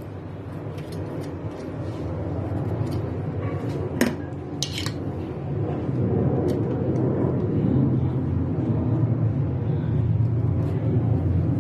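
A few small metallic clicks and clinks as a carbon brush is worked out of its holder on a washing-machine motor, over a steady low rumble that gets louder in the second half.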